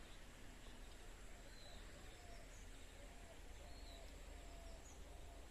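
Quiet forest ambience with faint, scattered short bird chirps and whistles, some high-pitched and some lower.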